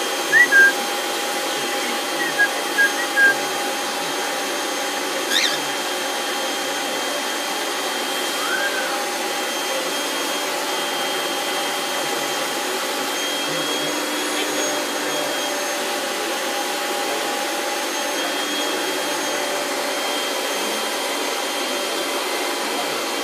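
Hair dryer running steadily with a continuous blowing hum. A few short bird chirps and whistles sound over it in the first nine seconds or so.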